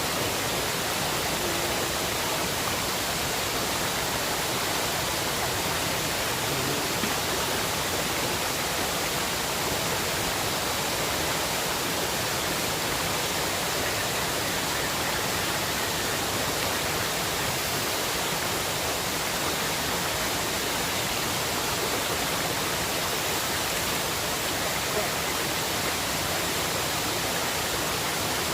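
Steady rush of a fast-flowing river, an even hiss without pauses or changes.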